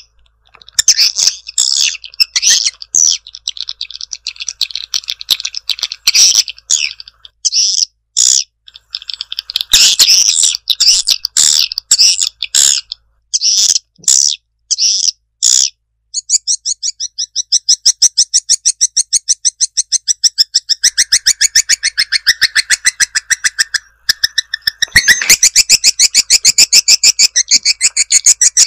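Recorded swiftlet calls in a lure track for drawing swiftlets to a nesting house: rapid trains of high, twittering chirps broken by short pauses. The longest unbroken run lasts several seconds in the second half.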